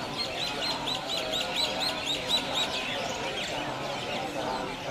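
Birds chirping outdoors: a rapid run of short, repeated high calls, about five a second, through the first half, with scattered chirps before and after.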